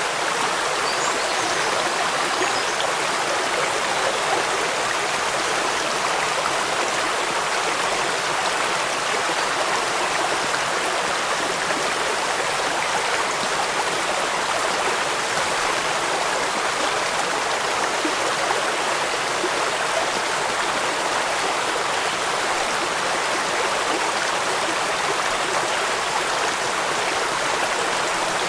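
Steady rushing water, an even, unbroken hiss with little bass and no changes.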